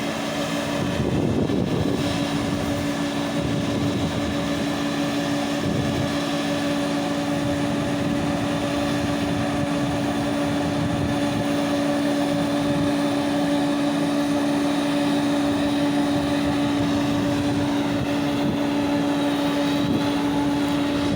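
Heavy farm machinery's diesel engine running steadily under load, with a constant hum and an even mechanical rush.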